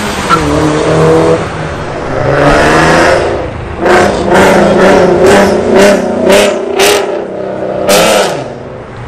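A car engine revving: one rev, then about seven quick, loud blips of the throttle in a row, each rising and falling in pitch.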